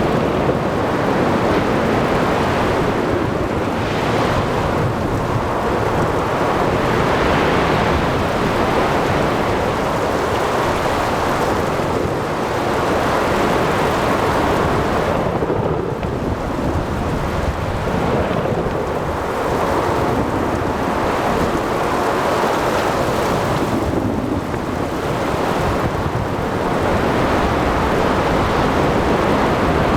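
Ocean storm ambience: steady heavy rain and breaking waves under rumbling thunder and wind, swelling and easing every few seconds.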